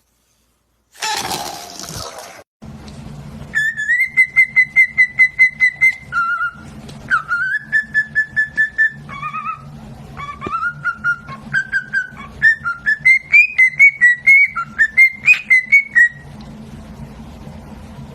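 A short harsh, noisy call, then a long whistled tune of rapid repeated notes, about five a second, whose pitch steps up and down, with a steady low hum underneath.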